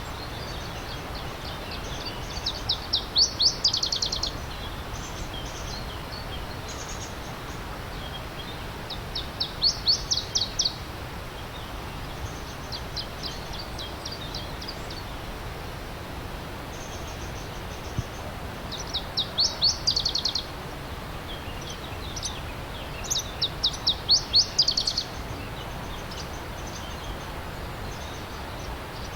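Steady rush of a stream with a songbird singing over it: four loud phrases, each a quick run of high notes building in loudness and lasting a second or two, with softer scattered chirps between.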